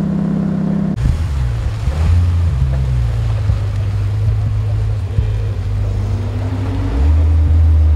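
Ferrari 488 Spider's V8 idling steadily, then an abrupt change about a second in to a silver Maserati coupé's V8 running deep and low as the car rolls slowly across a gravel lot. Its note rises slowly and grows louder near the end.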